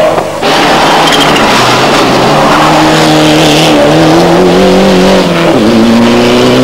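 Rally car's engine at high revs as it climbs the hill and passes close by, its pitch rising slowly, with a brief dip in revs about five and a half seconds in before it climbs again.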